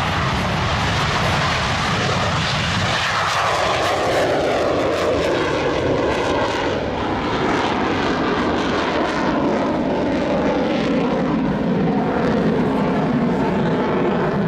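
Jet noise of a MiG-29 fighter's twin turbofan engines as it flies past: a loud, steady rush with sweeping shifts in pitch as the aircraft moves.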